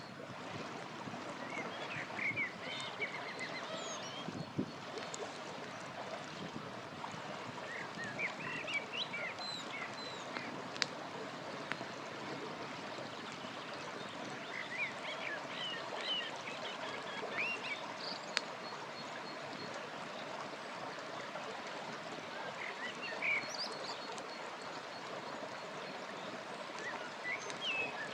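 River water flowing steadily, with songbirds chirping in several short bursts and an occasional sharp pop from a crackling campfire.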